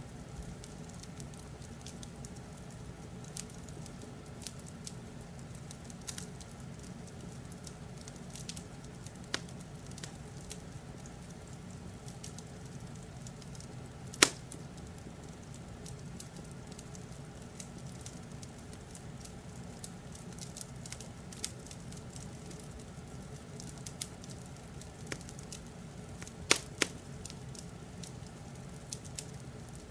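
Wood fire in a fireplace crackling over a steady low rumble, with scattered sharp pops; one loud pop about halfway through and a quick cluster of pops near the end.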